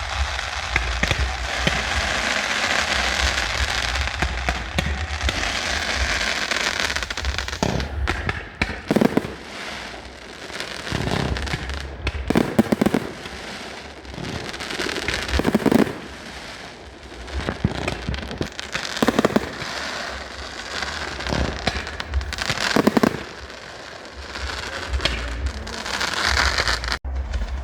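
Fireworks display: dense crackling from many shells for the first several seconds, then a run of separate loud bangs every few seconds, each with a brief crackle after it.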